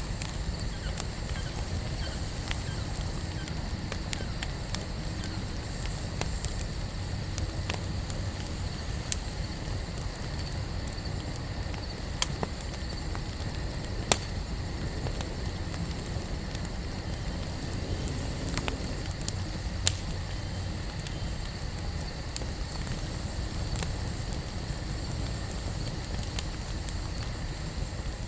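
Wood campfire burning with a steady low rumble of flames and scattered sharp crackling pops from the burning wood.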